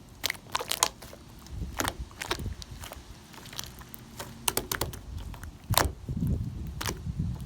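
Cloud slime being squeezed and stretched by hand, giving off irregular crackling pops and soft crunching.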